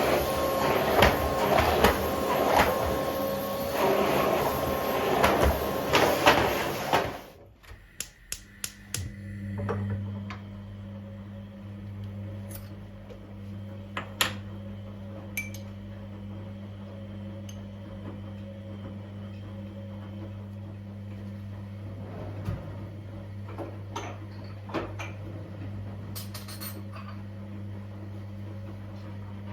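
Kitchen sounds. A loud steady noise with a faint whine stops about seven seconds in. A low steady hum follows, with scattered clinks and taps of dishes and utensils.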